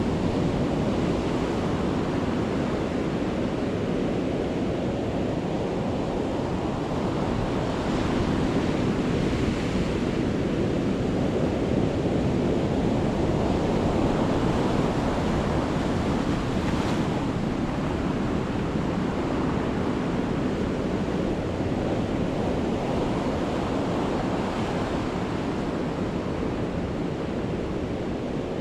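Sea waves breaking on the shore: a continuous rushing wash of surf that swells as waves come in, loudest around the middle.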